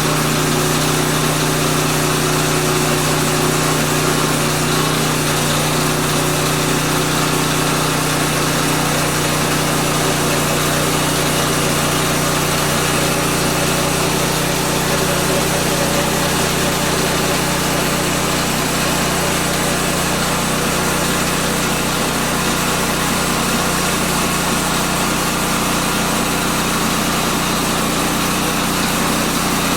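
Gas engine of a Woodland Mills portable bandsaw sawmill running steadily at speed.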